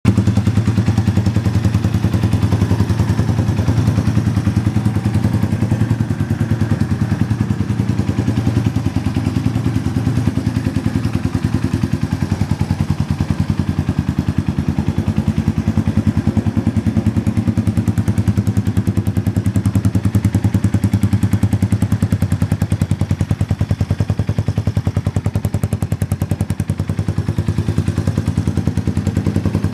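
Yamaha TW200's air-cooled single-cylinder four-stroke engine idling steadily through an aftermarket Supertrapp muffler, a rapid even exhaust beat.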